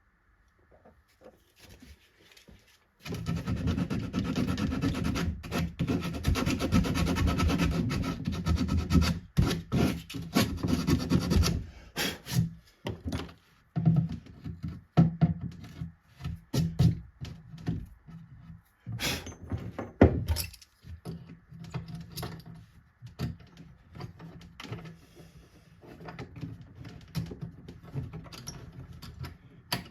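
Rubbing and scraping on wood: a dense run of rapid strokes starting about three seconds in and stopping suddenly, then scattered strokes and knocks.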